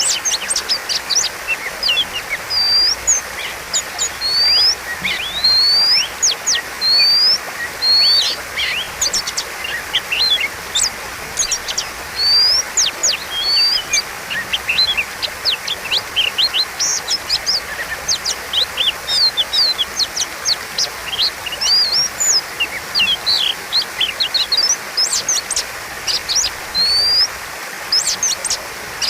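Oriental magpie-robin (kacer) singing continuously in a fast, varied run of sharp rising whistles and quick up-and-down sweeping notes, broken by short gaps between phrases, over a steady background hiss.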